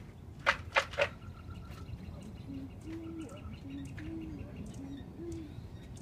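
Wild birds calling at a backyard feeding rail: three loud, harsh calls in quick succession about half a second in, then a string of soft, low, cooing notes.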